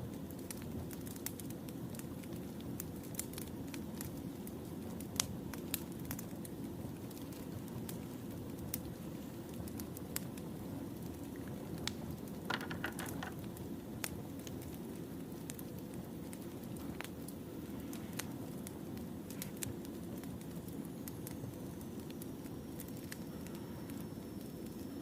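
Wood fire burning: a steady low rush with scattered sharp crackles and pops from the firewood, and a short run of quick snaps about halfway through.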